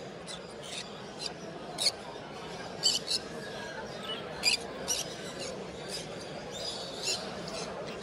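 Birds chirping and squeaking in short, sharp, high-pitched calls, roughly one or two a second at irregular spacing, over a steady background murmur.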